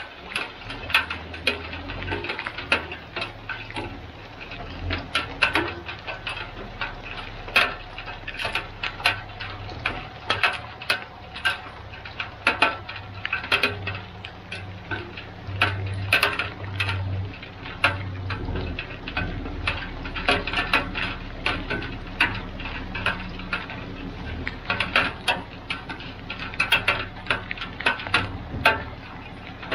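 Raindrops ticking irregularly on a hard surface right by the microphone, over a low engine rumble from the truck backing the trailer.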